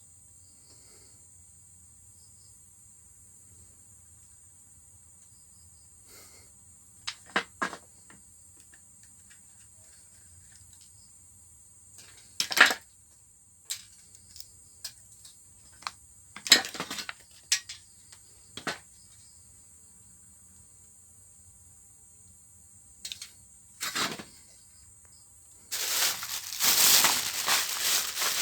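Scattered clinks and knocks of small metal parts and tools being handled while a rotary hammer drill is taken apart, ending in a few seconds of crunching, crinkling rustle, over a steady faint high hiss.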